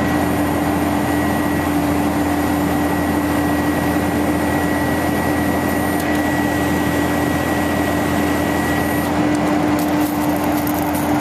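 1999 International 4900 bucket truck running steadily, a constant whine over its even mechanical noise.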